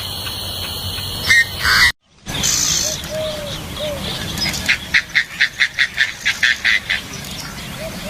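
Wild bird calls from two spliced recordings. First a steady high whine with a short call; then, after a brief dropout, low arching calls and a rapid run of about a dozen sharp notes, about five a second.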